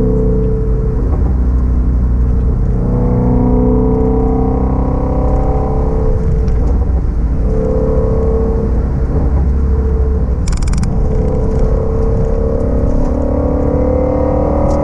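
Shelby GT350's 5.2-litre flat-plane-crank V8 running at a light, gentle pace, its note rising slowly and falling back several times as the throttle is eased on and off. A short sharp noise cuts in briefly about ten seconds in.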